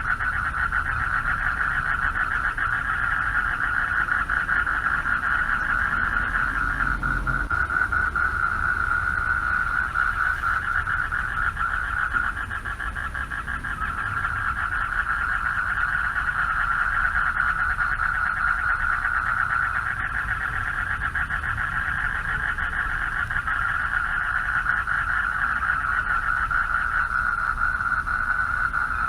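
Chorus of male frogs calling for mates at a pond: many overlapping, rapidly pulsing calls merge into one continuous high-pitched trill that never stops.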